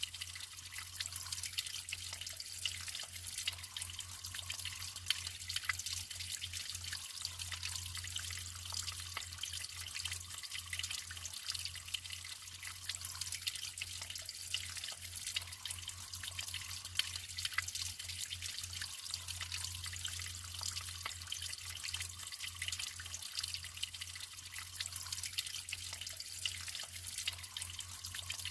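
Naturally flowing water trickling and splashing steadily: a constant hiss dotted with many small drips and plops.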